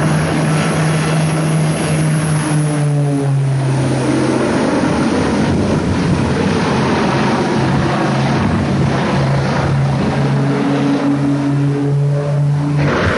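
Propeller aircraft engine droning steadily, its pitch stepping a little about two and a half and four seconds in and again near the end, over a rushing noise.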